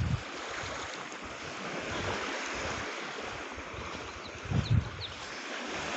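Small waves washing on a beach, with wind. A brief gust bumps the microphone about four and a half seconds in.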